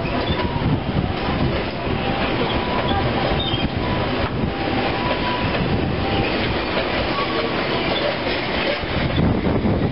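A train running on the rails with a steady loud rumble and wheel clatter.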